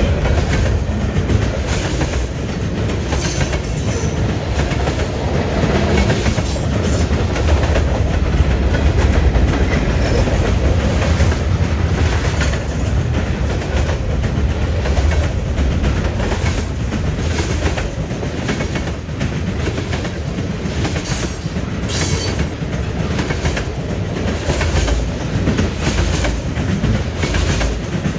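Freight train cars rolling steadily past at close range, a continuous low rumble with irregular clacks of the wheels over the rail joints.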